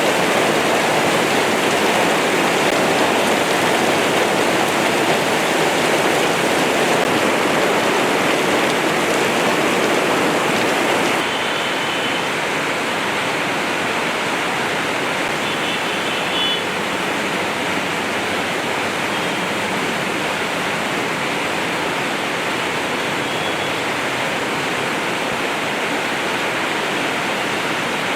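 Torrential rain pouring down, a steady loud rush of falling and running water. About eleven seconds in it gets a little quieter and thinner, then carries on unchanged.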